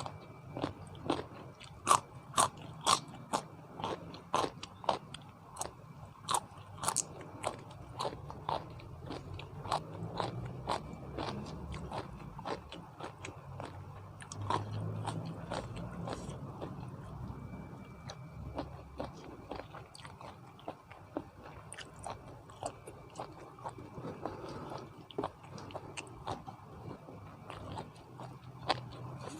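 Crunchy food being bitten and chewed close to the microphone. The crunches come fast and loud in the first several seconds, then grow sparser.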